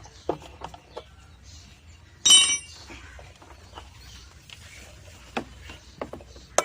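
Metal parts and tools clinking and tapping during work on a washing machine's motor and drum assembly. A little over two seconds in, one loud, bright metallic clink rings briefly, with scattered lighter taps and clicks around it.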